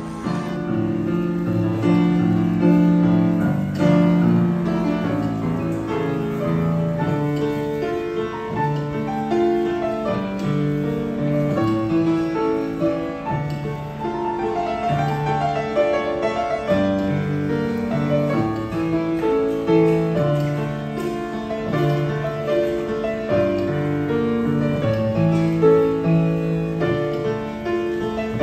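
Acoustic piano played continuously, with a bass line and full chords under a moving melody.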